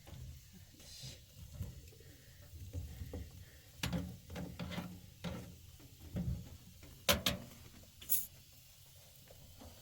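Scattered clicks and knocks of things being handled, the sharpest pair about seven and eight seconds in, over a faint low rumble.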